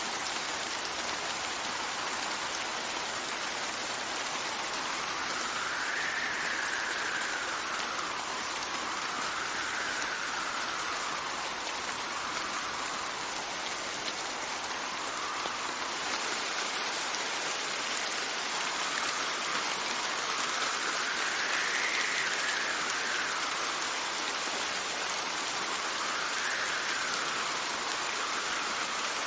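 Steady rain with wind, the wind's whoosh rising and falling in pitch every few seconds.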